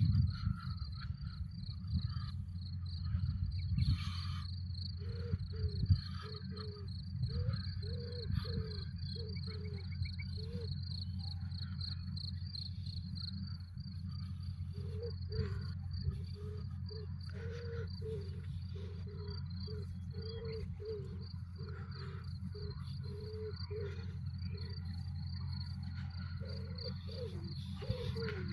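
Crickets chirping in a steady, fast-pulsing high trill, over a steady low hum. From about five seconds in, a lower call repeats about twice a second in runs.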